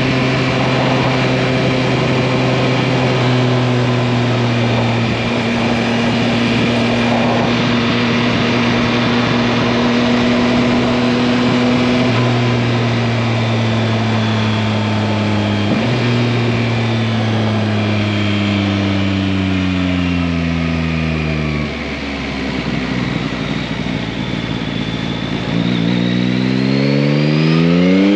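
Yamaha MT-09 (2021) 890 cc inline-three engine under way: it holds a steady pitch at cruising speed, then falls in pitch for several seconds as the bike slows. Near the end it rises sharply as the bike accelerates again.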